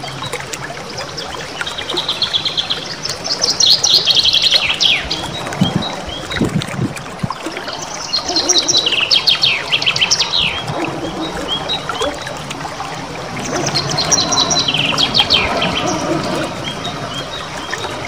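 Small songbird singing in three bursts of about two seconds, each a fast high rolling trill of repeated notes with sharp, piercing 'shot' notes, over a steady background hiss.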